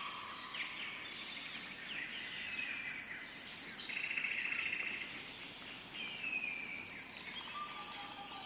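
Several birds chirping, with short calls sliding downward and a buzzy trill about halfway through, over a steady high insect drone.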